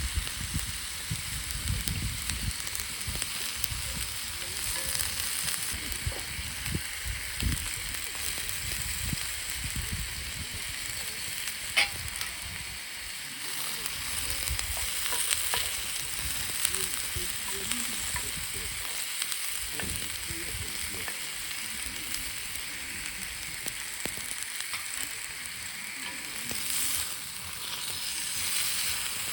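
Steak sizzling steadily in a skillet over a campfire, with scattered small crackles and one sharp pop about twelve seconds in.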